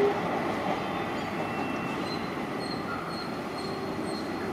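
Passenger train's coaches rolling away along the track, a steady rumble of wheels on rails that slowly fades as the train recedes.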